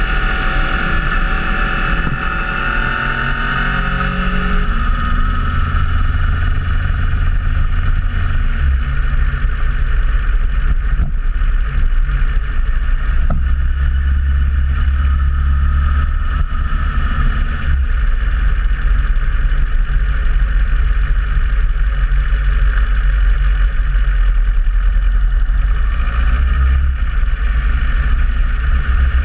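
Motorcycle engine running while riding on the road, with a heavy low rumble of wind on the microphone. The engine note rises and falls during the first few seconds, then holds steady.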